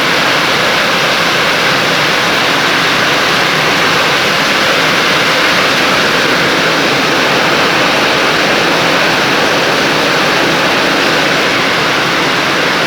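Steady roar of rushing water, loud and unchanging.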